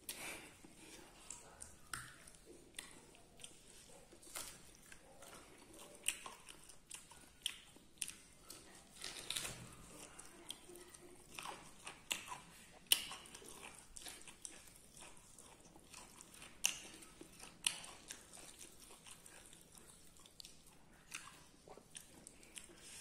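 A person chewing and biting food close to the microphone: wet mouth sounds with irregular sharp clicks and crunches, a few much louder than the rest.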